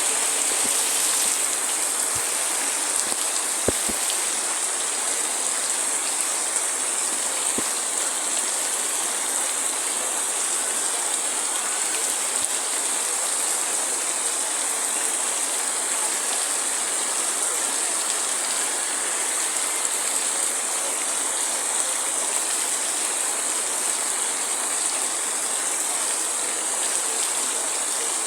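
Heavy rain falling steadily, an even hiss with no thunder, with a few faint drop clicks around four and eight seconds in.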